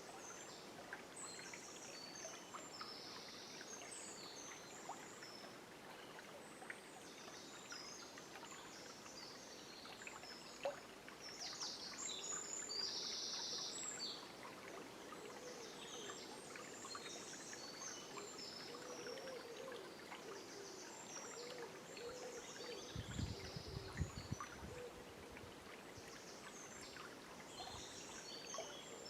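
River water running steadily, with many birds singing high, short calls in a dawn chorus that swells for a couple of seconds near the middle. A few low thumps come in a brief cluster about three-quarters of the way through.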